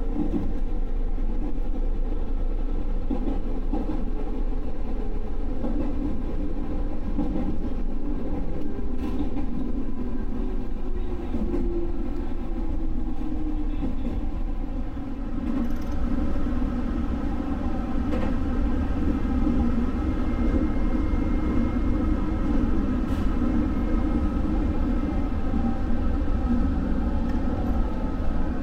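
Electric train running on the line: a steady rumble of wheels on rail, with a motor whine that falls slowly in pitch over the first dozen seconds.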